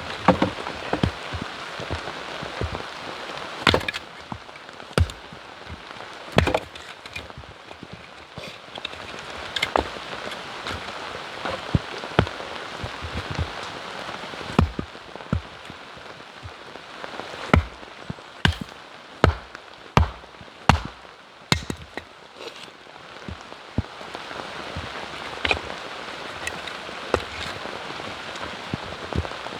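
Firewood being chopped and split in the rain: sharp wooden chopping strikes at irregular intervals, coming in a quicker run of about one a second past the middle. Steady rain hisses underneath.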